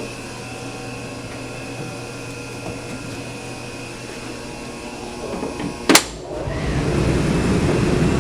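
Steady hum with a faint high whine, then a sharp click about six seconds in, after which the air handler's belt-driven blower starts and spins up, its rush of air building steadily. The blower runs on a newly fitted belt that replaces a loose one which had made it vibrate.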